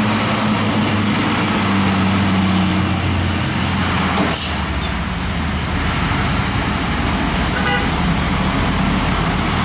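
Heavy diesel trucks running past on the road, their engines giving a steady drone over tyre and traffic noise, with the engine note shifting about four seconds in. A brief horn toot sounds near the end.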